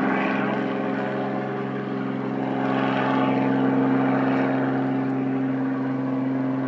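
Steady engine drone: an even, low hum that holds one pitch.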